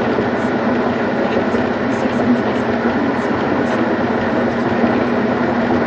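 Steady road noise inside a moving car on a highway: the engine's drone under the hiss of the tyres on a wet, snowy road.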